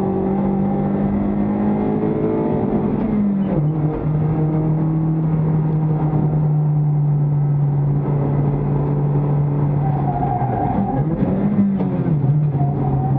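Toyota Vios race car's four-cylinder engine heard from inside the stripped cabin, running hard under throttle. Its pitch drops at a gear change about three and a half seconds in, then holds steady. Near the end it dips and briefly rises again as the car slows.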